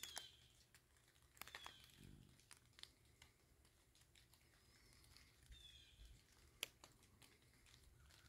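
Near silence, with faint scattered clicks and crackles and three short, high falling chirps from a small bird.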